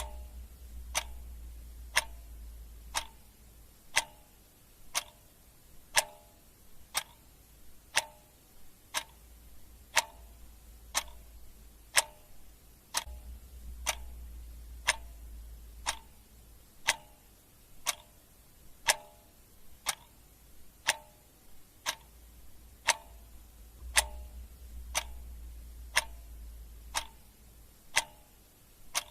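Clock ticking in a steady tick-tock: a sharp tick every second with a softer tick between.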